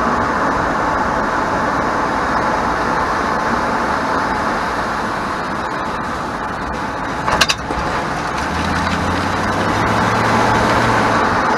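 2001 Chevrolet Silverado 1500 driving, with steady road and tyre noise and a brief sharp rattle about seven seconds in, the bump rattle from the rear that the owner traced to the parking brake (e-brake). The engine hum grows louder near the end.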